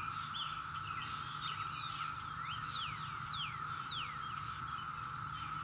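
Birds chirping: many short, quick downward-sweeping calls, several a second, over a steady high-pitched drone.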